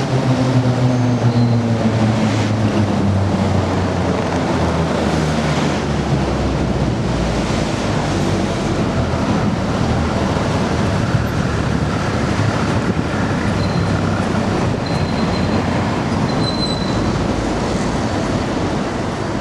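Shanghai Maglev train slowing as it pulls in. Its hum falls in pitch over the first several seconds, then gives way to a steady rushing noise.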